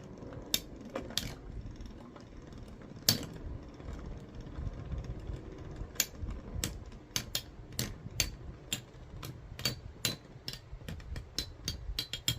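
Galaxy Pegasus and Lightning L-Drago metal Beyblade tops spinning in a plastic stadium: a low steady whir with sharp clacks as they collide. The clacks come more often from about halfway, roughly two a second.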